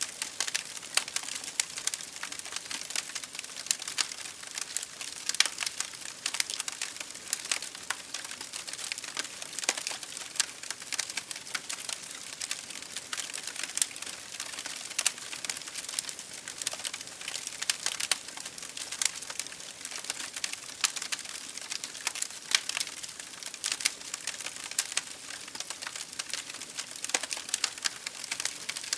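Wood fire burning in an open fireplace, crackling and popping with many irregular sharp snaps over a soft hiss.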